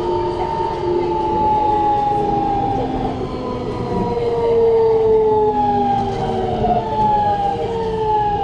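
Siemens GTO VVVF inverter and traction motors of a Keikyu New 1000 train, heard from inside the car: several whining tones falling slowly and steadily in pitch over the running rumble as the train slows.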